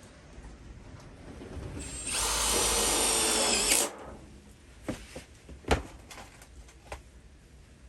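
A power drill runs with a whine for just under two seconds, starting about two seconds in and cutting off suddenly. A few sharp knocks follow, the loudest one about two seconds after the drill stops.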